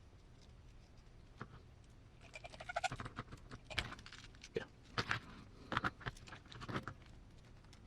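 Small hard parts being handled and fitted by hand: irregular clicks, taps and light rattles. A few scattered clicks come first, then a busy run of them from about two seconds in until about seven seconds.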